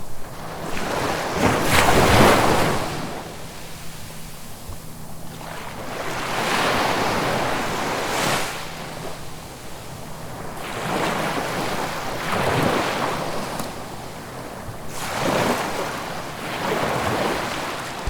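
Ocean waves breaking and washing up a shore in repeated surges every few seconds, the loudest about two seconds in.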